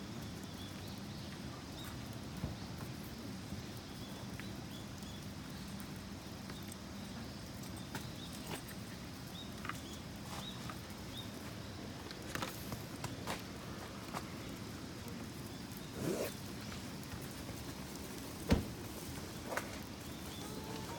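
Campfire burning with scattered small crackles and pops over a steady low background, with a sharper snap near the end.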